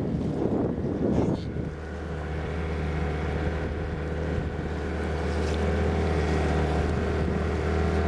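Steady low engine or motor hum at a fixed pitch, slowly growing louder. A rush of wind-like noise fills about the first second and a half.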